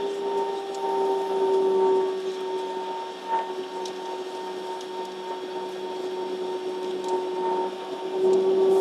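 Steady airliner cabin hum inside a Boeing 737 on the ground before take-off: a constant drone with one clear mid-pitched tone and fainter higher tones over a hiss of air.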